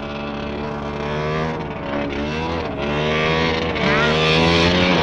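Off-road truck engine running, its pitch rising and falling slightly as the throttle changes. It gets louder toward the end.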